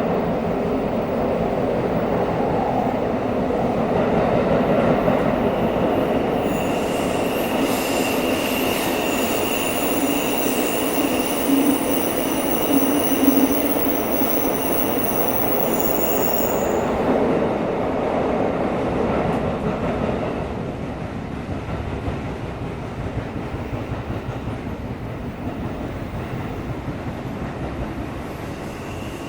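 Tokyo Metro 17000 series subway train running, heard from inside the car: a steady rumble of wheels and running gear, with high-pitched wheel squeal from about 7 to 17 seconds in. The rumble gets quieter about 20 seconds in.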